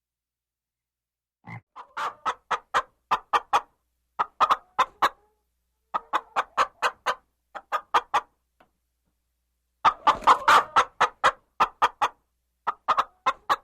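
An animal calling in quick runs of short, sharp notes, about six a second, in bursts of several notes with short pauses between; the longest and loudest run comes near the end.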